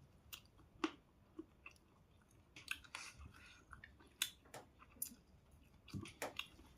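A person chewing and eating, heard faintly as an irregular scatter of soft mouth clicks.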